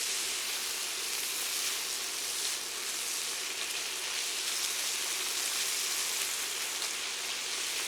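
Chopped thick-cut bacon sizzling in a hot frying pan: a steady hiss with faint scattered crackles.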